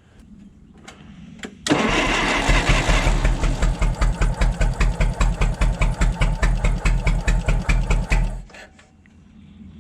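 Forklift engine cranked over on its starter with a spark plug out for a compression test, a steady chugging rhythm of about five beats a second that starts a little under two seconds in and stops near the end. The cylinder being tested shows 125 psi, good compression.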